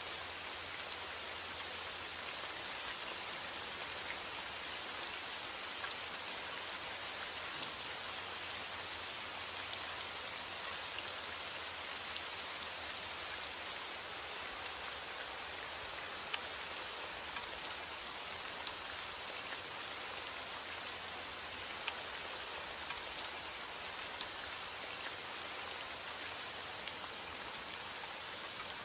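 Steady rain falling, an even hiss of many drops with faint scattered drop ticks, unchanging throughout.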